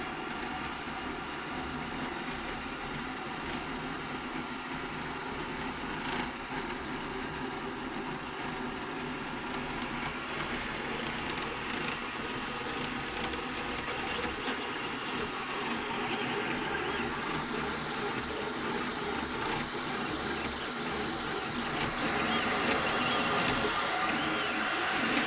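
A small motor-driven mechanism running steadily, a continuous whir with a few held tones, getting louder about 22 seconds in.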